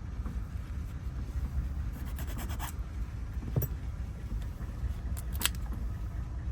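Hand file on a metal key blank, filing down the last cut of a car key in short runs of quick rasping strokes, about two seconds in and again near five seconds, with a single click between.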